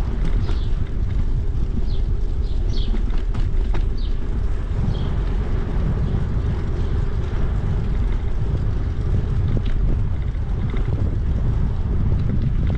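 Wind buffeting the microphone while riding a bicycle, a loud, steady low rumble. A few short, high chirps sound in the first five seconds.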